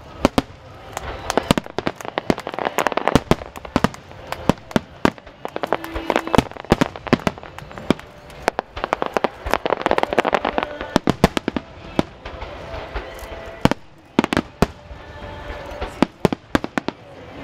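Wide starmine fireworks: a rapid barrage of shell bursts, dozens of sharp bangs in quick succession with crackle in between, thickest about two to three seconds in and again around ten seconds in.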